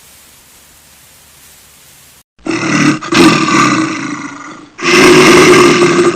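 A big cat roaring loudly, in long rough roars that begin about two seconds in, after a faint hiss.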